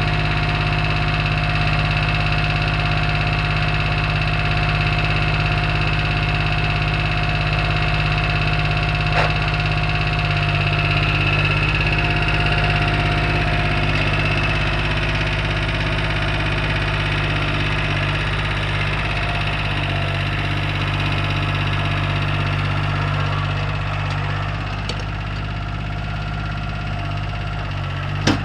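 Satoh Mitsubishi compact tractor engine running steadily, easing slightly quieter near the end, with one sharp click just before the end.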